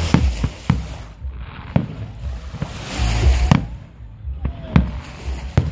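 Aerial fireworks shells bursting overhead: about six sharp bangs at irregular intervals, roughly a second apart, over a low rumble.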